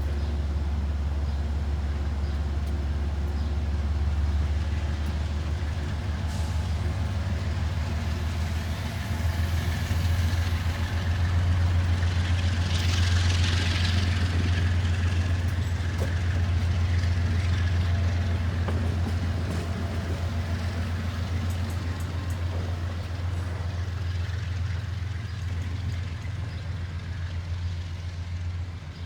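Amtrak diesel locomotive engine running steadily as a deep, loud drone while the train stands at the platform. A brief hiss of air comes about halfway through.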